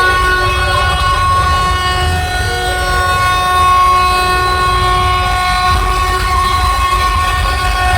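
A large DJ sound system blasting a long, held train-horn-style tone that starts abruptly and stays steady, with heavy bass rumbling underneath.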